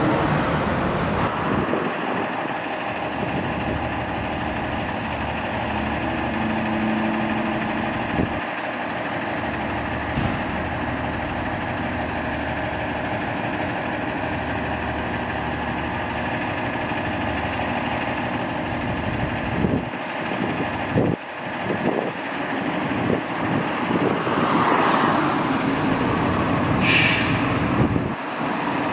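Fire truck's diesel engine running steadily, with a short, sharp hiss of air brakes released near the end.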